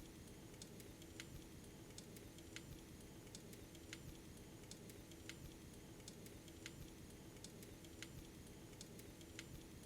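Faint crackling of a fireplace fire: scattered small pops and ticks at uneven intervals over a low, steady hum.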